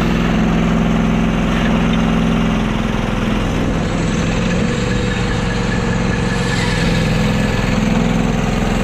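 The gasoline engine of a Norwood HD36 portable sawmill running steadily. Its pitch dips slightly a few seconds in and comes back up near the end.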